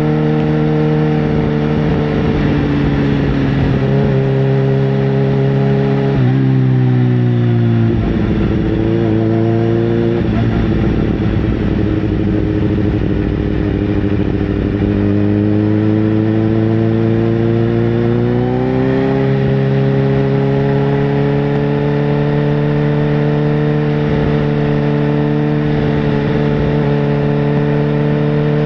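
Sportbike engine running at a steady pitch. About six seconds in the pitch drops and stays lower for several seconds, then climbs gradually back up and holds steady again.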